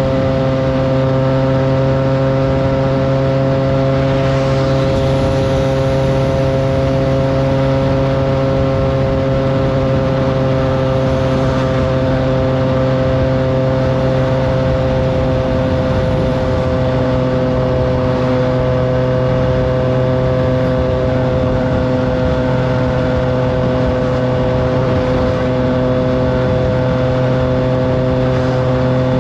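Triumph Trident 660's three-cylinder engine running through a FireTong aftermarket exhaust, held at a steady engine speed while cruising, its note drifting only slightly lower over the stretch.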